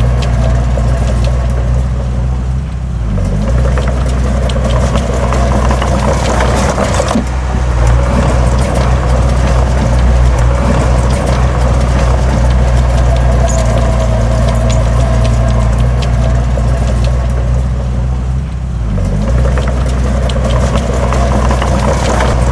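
Heavy diesel engine of earthmoving equipment running steadily under load. The engine note dips briefly about three seconds in and again near the end.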